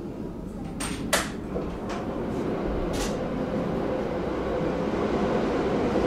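A few sharp clicks and knocks, the loudest about a second in. Under them the rumble of an electric train on the adjacent track grows steadily louder as it comes alongside in an underground station.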